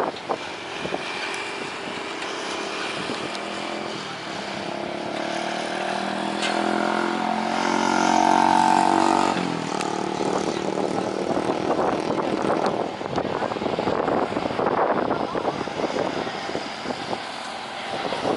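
A vehicle passing close by: its engine hum builds to a peak about eight seconds in, then drops in pitch as it goes past, over a steady noisy background.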